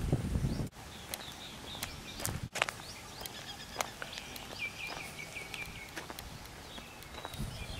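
Outdoor ambience with birds chirping, including a quick run of repeated chirps a little past halfway, over scattered light clicks. A low rumble is heard at the start, and the sound drops out briefly twice.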